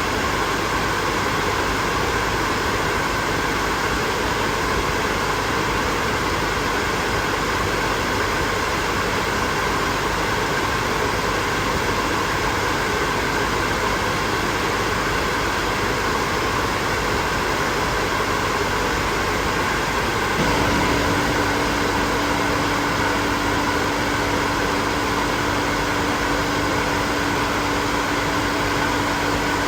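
Hair dryer running steadily: an even rush of blown air over the motor's hum. About twenty seconds in, a steady low hum joins and holds.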